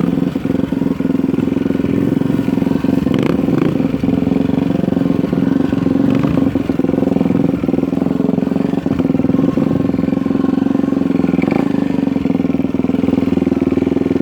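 Dirt bike engine running steadily at a nearly constant pitch, loud and close, with scattered knocks and rattles.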